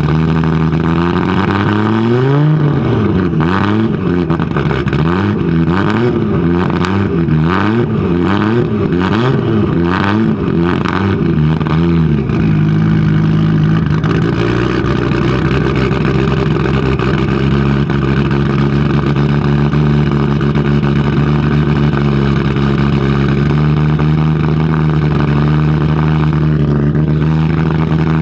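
Audi Sport Quattro S1 E2's turbocharged inline five-cylinder engine blipped repeatedly, its pitch rising and falling about once a second with sharp cracks on each blip. About twelve seconds in it settles into a steady idle.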